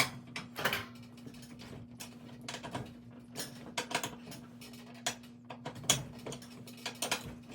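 Irregular metallic clicks and clinks from hand tools working on a garage door torsion spring assembly, a few sharper knocks among them, over a low steady hum.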